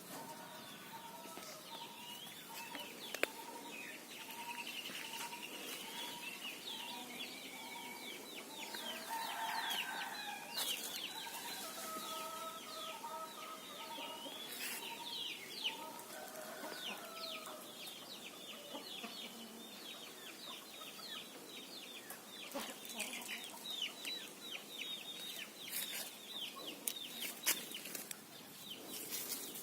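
A squirrel's alarm calls: a run of short clucking notes about twice a second, then rapid high chirping that goes on through most of the stretch, with a few sharp clicks.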